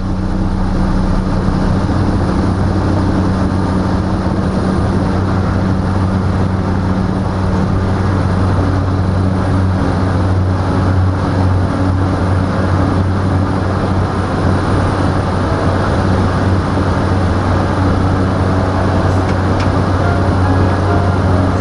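Steady engine drone heard from inside a moving vehicle, a constant low hum with a deeper note and its octave and a rushing noise underneath.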